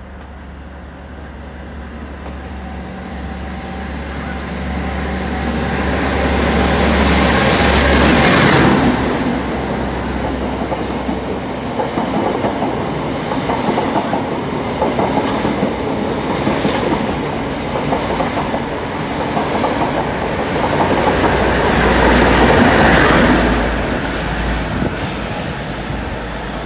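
The Midland Pullman HST passing through the station. The diesel engine of the leading class 43 power car grows louder as the train approaches. The coaches then rush past with a rhythmic clatter of wheels over the rail joints and some wheel squeal, and near the end the rear power car's engine passes and fades away.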